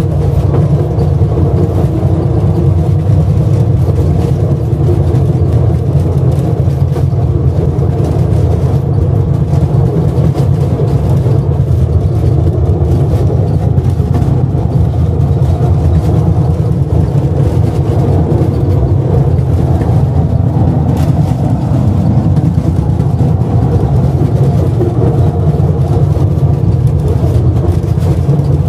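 Loud, steady low rumble of the mine train running through the tunnel, heard from inside a passenger car.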